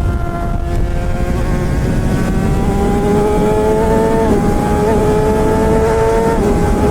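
Suzuki GSX-R600 inline-four running through a straight-pipe M4 exhaust with no catalytic converter while the bike is ridden. The engine note sags slightly at first, then climbs steadily under acceleration, with two brief dips, one about halfway and one near the end, over a rumble of wind and road noise.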